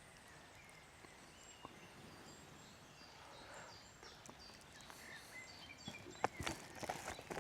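Faint woodland birdsong, short high whistled notes from several birds, over quiet outdoor background noise. From about six seconds in, a run of close clicks and rustles starts and grows louder.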